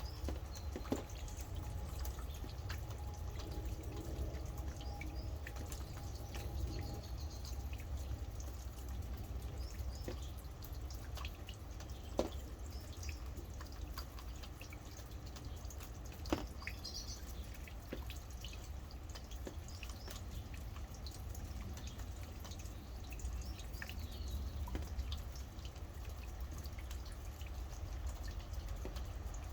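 Rain falling and dripping, with separate drops landing close by as sharp ticks over a steady low rumble. A few short bird chirps come through now and then.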